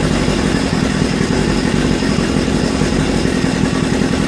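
Mercury 50 outboard motor running steadily at idle, just restarted.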